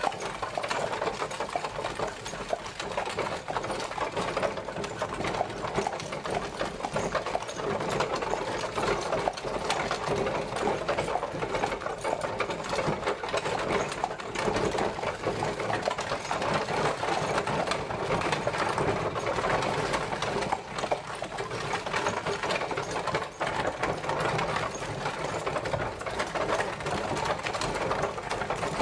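Horse-drawn carriage travelling: a steady, dense clattering rattle of the wheels and body at an even pace.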